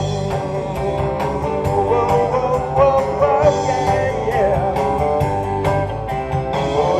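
Live rock and roll band playing between sung lines, with a steady drum beat under sustained instrument notes.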